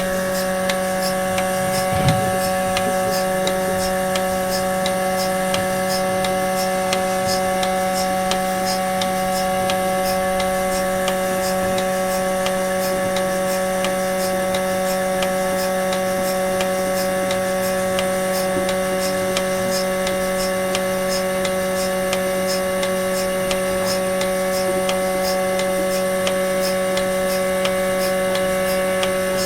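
Milking machine running steadily during milking: a constant motor hum with a light, regular ticking over it, and one small knock about two seconds in.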